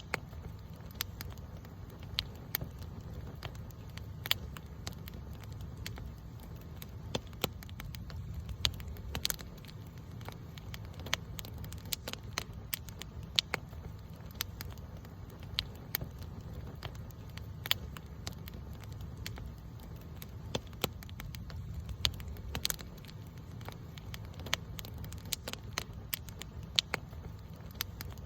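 Wood campfire crackling: irregular sharp pops and snaps, several a second at times, over a low steady rumble.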